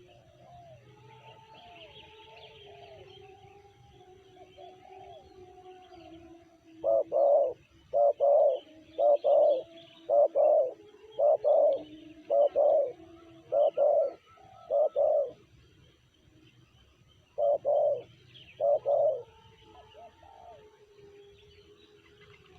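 Spotted dove (tekukur) cooing: a run of about ten loud, evenly repeated coos, then after a short pause a few more. Fainter cooing from other doves and small birds chirping carry on underneath.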